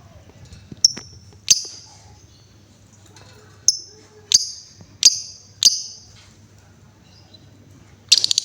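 Female lovebird giving six sharp, high chirps spaced out over several seconds. Near the end it breaks into a very rapid, ticking trill (the 'ngekek').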